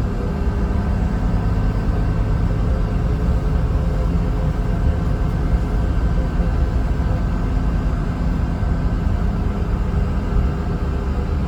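Mercedes-Benz O307 city bus heard from inside the passenger cabin while under way: a steady low engine and road rumble with a faint steady hum above it.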